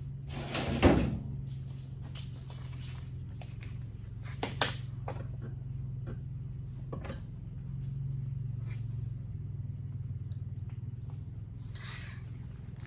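Knocks and handling clatter as a work light is rigged up: a sharp knock about a second in, a smaller clack a few seconds later and a brief rustle near the end, over a steady low hum.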